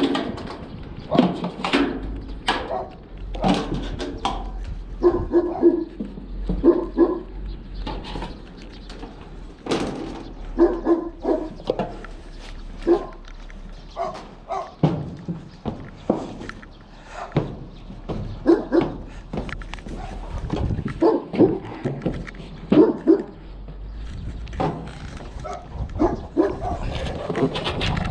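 A dog barking over and over, in short barks coming about once a second with brief gaps.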